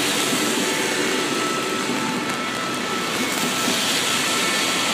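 TGV high-speed train passing close by at speed: a steady, even rush of wheels on rail and air, with a faint high whine.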